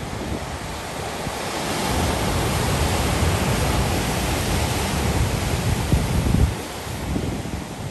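Ocean surf breaking on the shore: a wave's rush swells about two seconds in, holds, and falls away shortly after six seconds, over a low rumble.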